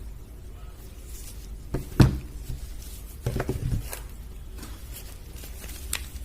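Bars of soap being handled and set down on a hard surface: a single thump about two seconds in, a short clatter about a second later, and a few light clicks.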